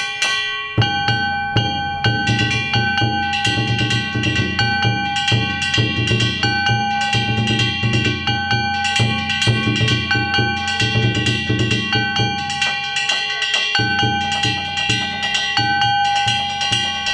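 Danjiri festival music (narimono): taiko drums beaten in a fast, continuous rhythm with small hand gongs (kane) ringing over them. The drumming breaks off briefly at the very start and again near the 14-second mark.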